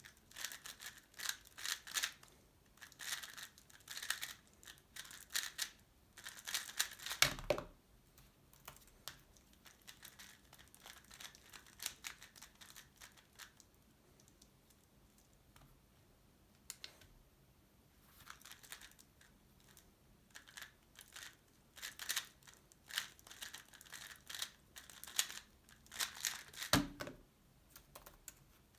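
Fast, dense clicking of a Tornado V3 Pioneer 3x3 speed cube's layers being turned during a solve, from the start to about seven seconds in and again from about eighteen seconds to near the end, with sparser turning in between. A thump sounds at the end of each run of clicks.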